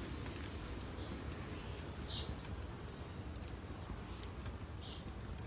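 Birds chirping: short, high chirps about once a second over a low steady rumble of room tone, with a few faint crackles from an open wood fire.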